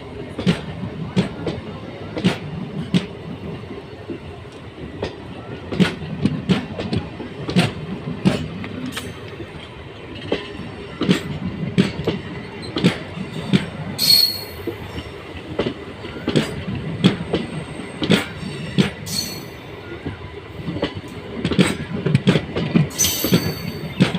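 MEMU electric multiple-unit train running on the rails, its wheels clattering over rail joints in repeated clusters of sharp clicks over a steady rumble. Brief high wheel screeches come about 14 s in and again near the end.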